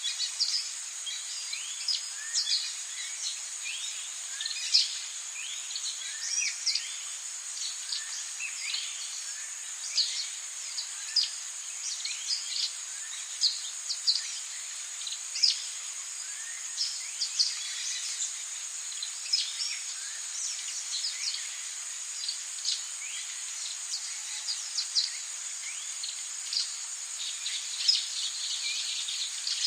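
Rainforest ambience: a steady high-pitched insect drone, with many short, sharp bird chirps, mostly falling in pitch, scattered irregularly over it.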